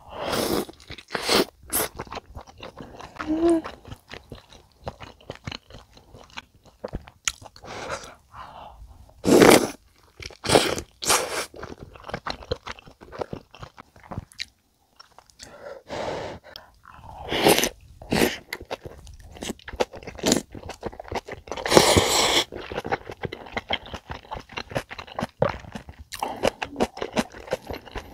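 Close-miked eating sounds: biting into and chewing a big meat dumpling from rice cake soup, then crunching kimchi, in irregular bursts of wet chewing and crunching with short pauses.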